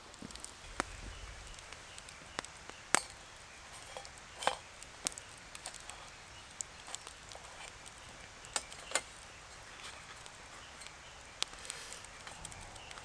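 Irregular sharp clicks and knocks over a quiet background, the loudest about three seconds in and a pair near nine seconds.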